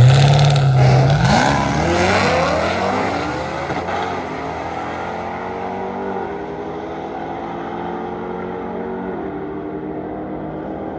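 A drag-racing car's engine launching hard and accelerating away down the strip, its pitch climbing, then dropping back twice as it shifts gears. The engine grows steadily quieter as the car pulls away.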